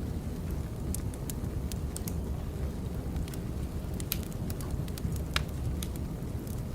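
Burning firewood crackling: a steady low rumble of flames with irregular sharp pops and snaps scattered through it.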